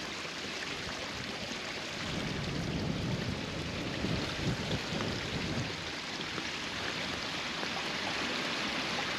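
Steady rush of flowing water from a small waterfall stream, swelling a little louder and rougher for a few seconds in the middle.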